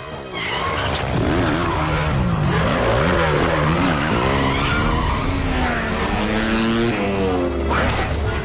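Motorcycle engine revving hard, its pitch rising and falling several times in quick swings, over tyres skidding. A sudden loud noise comes near the end.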